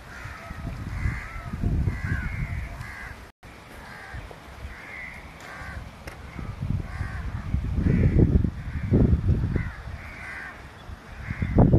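Birds calling repeatedly, many short harsh calls one after another, over wind rumbling on the microphone that gusts up a couple of times near the end.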